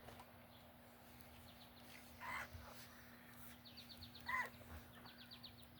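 Faint outdoor ambience: a bird repeats a short, rapid high trill several times, with two louder short calls partway through, over a faint steady low hum.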